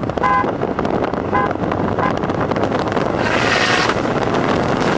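Car engine running under heavy wind noise on the microphone. Three short pitched beeps come in the first two seconds, and a loud hiss in the upper range joins about three seconds in.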